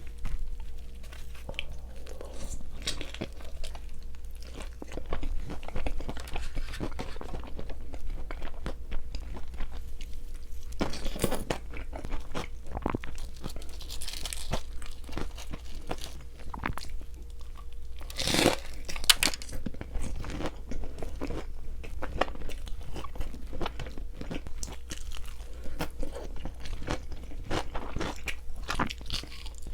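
Close-miked eating: repeated biting, crunching and chewing of crunchy food, irregular and wet, with the loudest crunches about eleven and eighteen seconds in, over a steady low hum.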